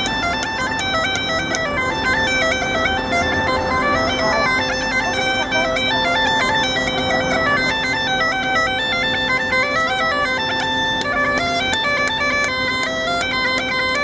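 Bagpipe music: a quick-stepping chanter melody over steady drones, playing continuously.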